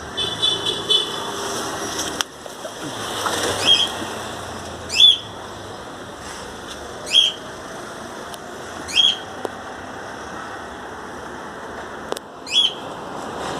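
A bird calling: one short, high call about every two seconds, five or six times, over a steady background hiss.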